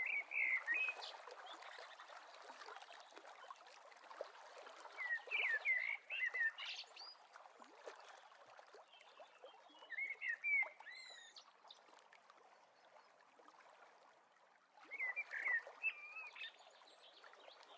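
A songbird singing short whistled phrases four times, about every five seconds, over the steady faint rush of flowing water.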